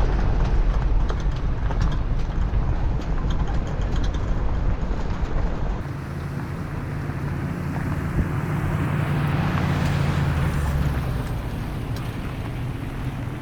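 A motor vehicle engine running steadily under way, with wind rushing over the microphone. The sound shifts about six seconds in, and the rush swells for a few seconds near the end.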